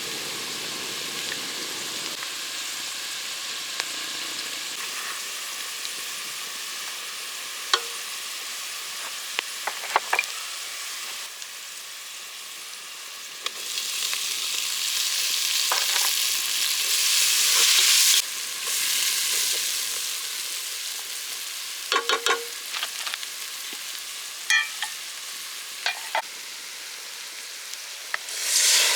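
Food sizzling in hot oil in a cooking pot, stirred with a utensil that clicks and scrapes against the pot now and then. The sizzle swells louder about halfway through for a few seconds.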